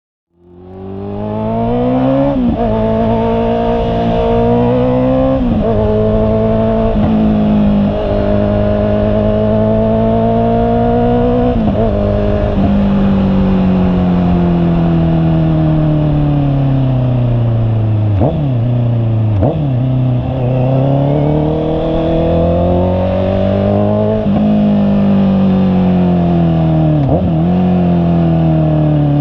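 Honda CB650R's 649 cc inline-four engine under way, pitch climbing through the gears with a sharp drop at each gear change, then falling away in long stretches as the bike rolls off the throttle. The sound fades in during the first second.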